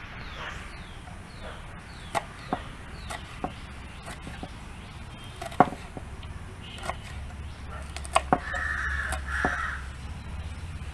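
A knife cutting green chillies on a cutting board, a few irregular sharp chops. A crow caws near the end, and small birds chirp briefly at the start.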